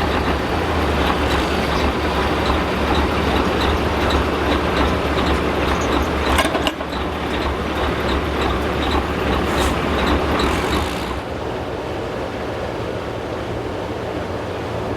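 Heavy diesel engine running at low revs, with a steady low rumble that drops away about eleven seconds in. There is a single sharp clank about six and a half seconds in.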